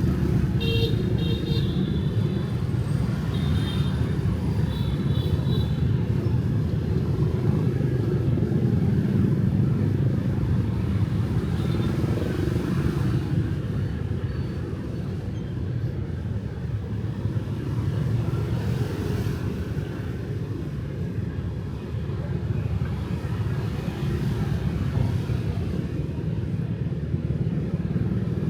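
Night street traffic with motorbikes and cars passing: a steady low rumble of engines and tyres. A few short high-pitched tones sound in the first few seconds.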